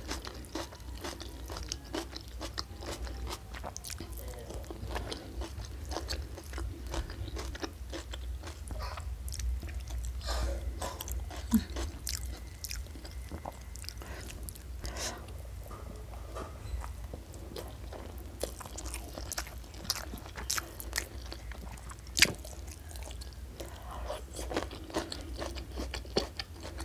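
Close-miked eating sounds: chewing and biting with many small wet clicks and crunches, first on a mouthful of stir-fried mustard greens, then rice picked up by hand. One sharper crunch stands out late on.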